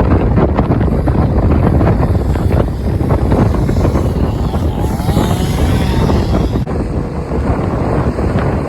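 Strong gale-force wind buffeting the microphone: a loud, gusty low rumble.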